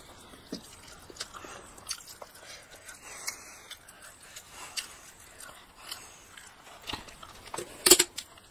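A boy chewing a mouthful of rice and egg curry, with soft, irregular wet smacks and clicks of the mouth, and one sharper, louder click near the end.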